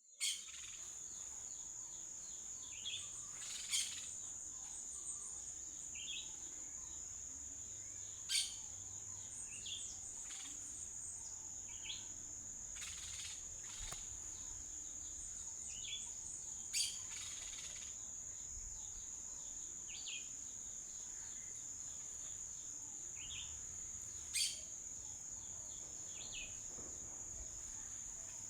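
Short bird chirps every second or two over a steady high-pitched insect drone. Five brief, sharp, louder sounds stand out, several seconds apart.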